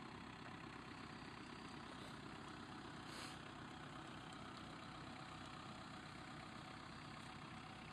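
An off-road vehicle's engine idling steadily, with a short hiss about three seconds in.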